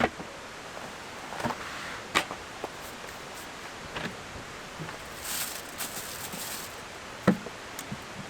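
Scattered knocks and clicks of objects being handled, about six in all, with a brief rustle about five seconds in, over a steady outdoor hiss.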